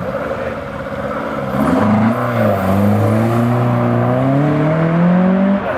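Classic Ford car's engine accelerating hard away: about a second and a half in it revs up, dips briefly, then climbs steadily in pitch for about three seconds before dropping off near the end.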